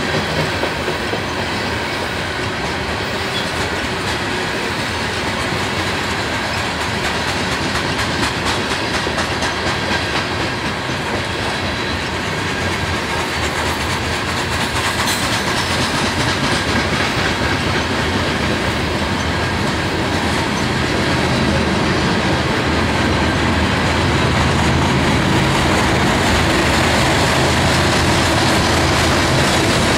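Coal hopper cars of a Union Pacific freight train rolling past, steel wheels clicking over rail joints with a steady rumble. In the last several seconds it grows louder as the rear distributed-power diesel locomotive draws near, its engine adding a low drone.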